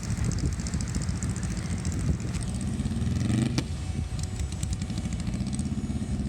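Vehicle engine running in the sand, revving up with a rising pitch about halfway through, followed by a sharp click. The driver is trying to pull a stuck manual-transmission vehicle out of soft sand.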